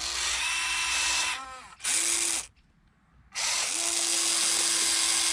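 Electric drive motors and gearboxes of a Huina V4 remote-control excavator whining in runs. The whine winds down with a falling pitch about a second in, gives a short burst, stops for about a second, then runs steadily again.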